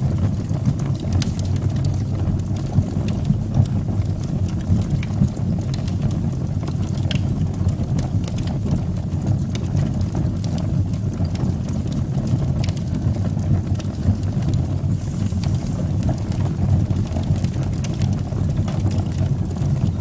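Fire burning in a fireplace: a steady low rumble with frequent small crackles and pops.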